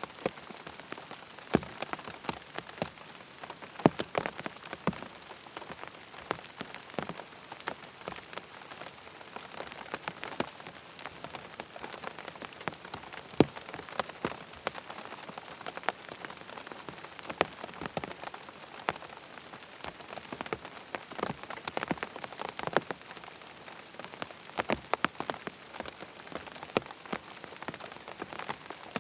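Steady rain falling, an even hiss with many close, sharp drops pattering irregularly on a hard surface.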